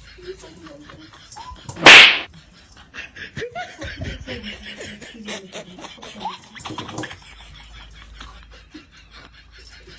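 One loud, sharp hand slap about two seconds in, followed by several seconds of laughter.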